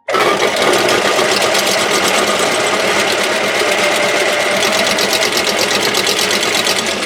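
Pink toy washing machine running its wash cycle: a loud, steady whirring rattle with a fast fine pulse, switching on abruptly.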